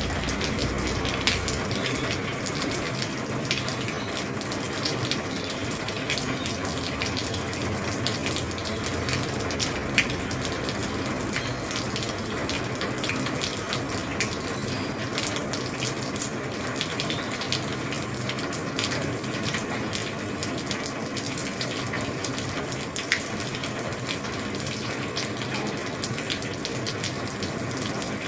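Heavy rain falling on an old roof: a steady hiss with many sharp drop taps scattered through it.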